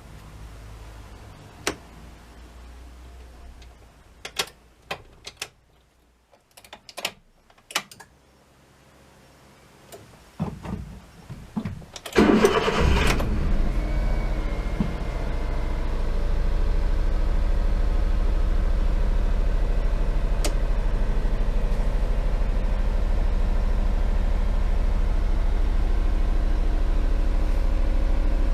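A string of sharp clicks, then about twelve seconds in the Honda Acty Van's 660 cc three-cylinder engine is cranked and catches after a brief start, settling into a steady idle.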